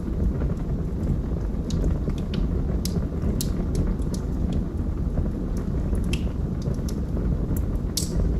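Fire burning in a fireplace: a steady low rumble with scattered sharp crackles and pops at irregular intervals.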